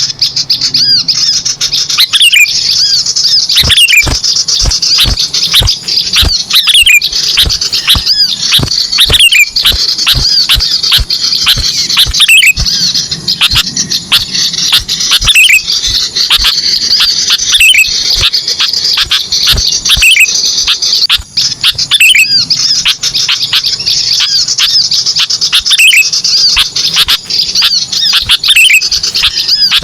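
Bird-lure recording of small songbirds: dense, continuous high-pitched chirping with many quick downward-sweeping call notes and scattered sharp clicks, the kind of call mix played to draw small birds in.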